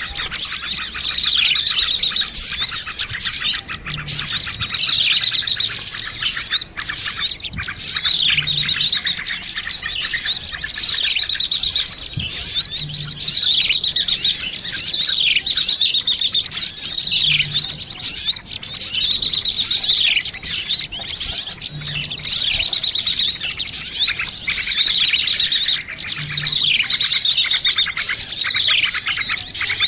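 Many small birds chirping and trilling at once in a dense, unbroken chatter: a mixed bird-lure recording of noisy small birds, played to draw wild birds in.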